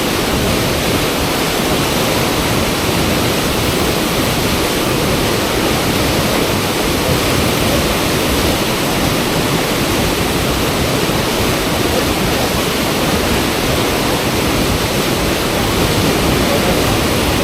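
Fast-flowing river water rushing steadily at a surfable river wave, a loud, even wash of sound with no breaks.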